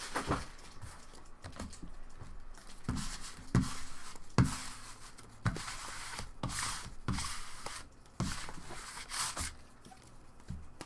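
Scattered handling noises: light rustling and crinkling with a dozen or so soft knocks, as of things being picked up and set down on a table.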